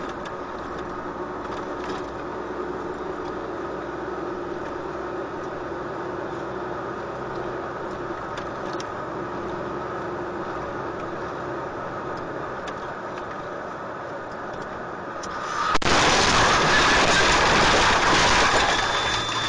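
Steady drone of a moving car picked up by a dashcam, engine and road noise with a constant pitch. About three-quarters of the way through it gives way suddenly to much louder rushing road and wind noise.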